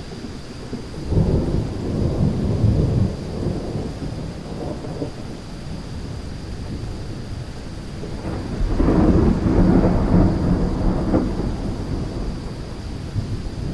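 Thunderstorm: two rolls of thunder over steady rain. The first rolls in about a second in, and the second, longer and louder, comes just past the middle.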